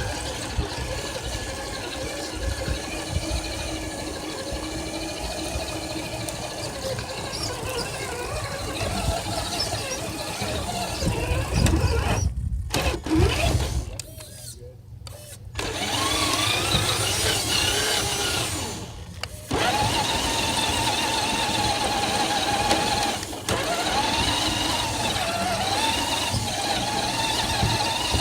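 Radio-controlled car running, its motor whine gliding up and down in pitch as it speeds up and slows, over a low rumble. The sound drops out briefly a few times around the middle.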